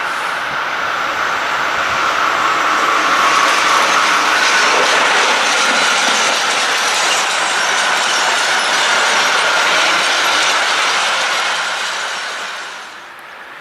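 Train rolling along the track: a steady rush of wheel-and-rail noise with a ringing squeal, fading away about twelve seconds in.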